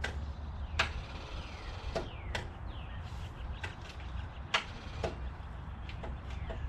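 Scattered sharp clicks and knocks, about six of them at irregular intervals, with a few short bird whistles falling in pitch over a low steady hum.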